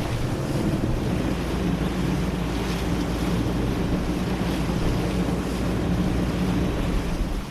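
Wind buffeting the microphone over the rush of sea water along a sailboat's hull as it moves through a choppy swell, with a steady low hum underneath.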